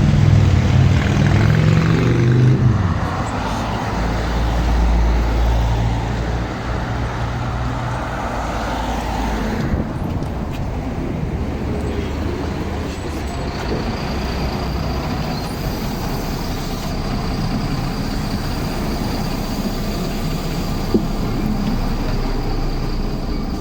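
Interior sound of a MAZ-107 articulated city bus with its diesel engine running. The engine note falls over the first few seconds and then settles into a steady low rumble, with a faint high whine later on.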